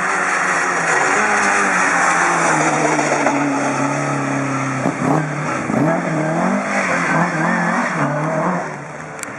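Rally car engine revving hard as it passes, its pitch climbing and dropping with gear changes and lifts, and fading away near the end.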